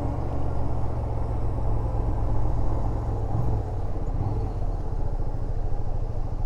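Yamaha SRV250's air-cooled V-twin engine running steadily as the motorcycle rides along, a low drone with a brief change in engine note a few seconds in.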